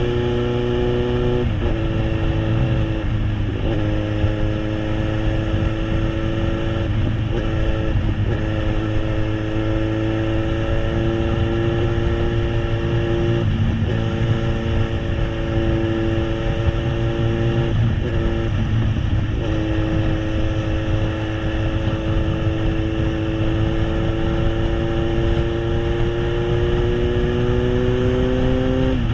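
Kawasaki Z800's inline-four engine through an SC-Project exhaust at steady cruising revs. The note rises slowly, and several times it dips briefly and picks back up, as with short throttle lifts or gear changes.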